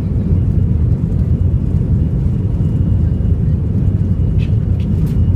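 Airbus A320's jet engines at takeoff power: a loud, steady, deep rumble. A few short high chirps come near the end.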